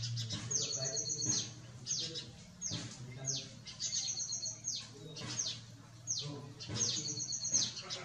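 Birds calling: high whistled notes that each slide quickly downward, repeated about once a second, with three bursts of rapid stuttered high notes, about half a second in, around four seconds in and near seven seconds.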